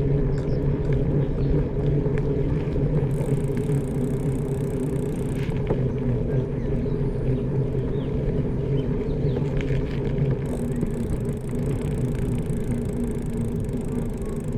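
Steady low drone of a running engine, holding an even pitch, with faint light ticks and rattles over it.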